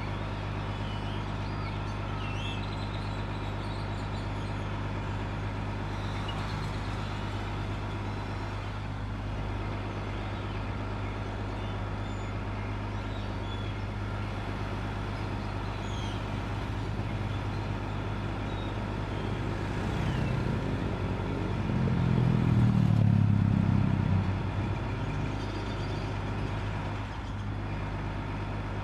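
Bus engine running at a steady idle, a constant low hum, with street traffic around it and small birds chirping now and then. About three-quarters through, a louder low vehicle rumble swells for a few seconds and fades.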